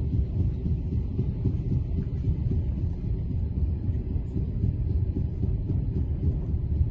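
Steady low rumble of a moving train, heard from on board.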